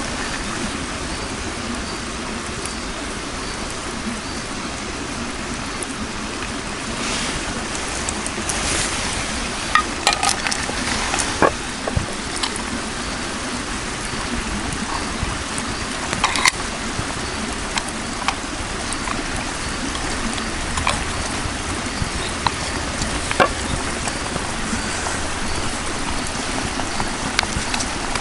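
Campfire burning: a steady hiss with scattered pops and crackles.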